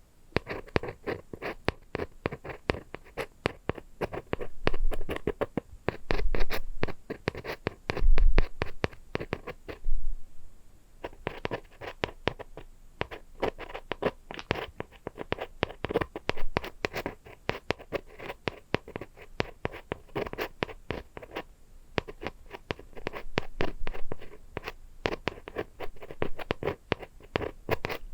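Rapid tapping and scratching on an object close to the microphone, as an ASMR trigger: a dense run of short clicks and scratches, several a second, in louder flurries now and then, stopping abruptly at the end.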